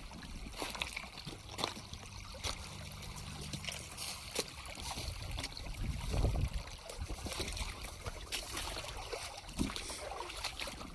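Creek water trickling, with scattered short knocks and rustles close by.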